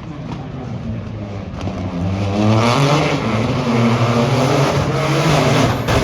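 A rally car approaches at speed, its engine getting louder from about two seconds in and its pitch rising and dropping repeatedly as the driver works through the revs and gears.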